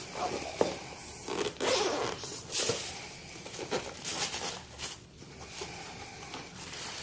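Packaging being opened by hand: a run of rasping, rustling strokes.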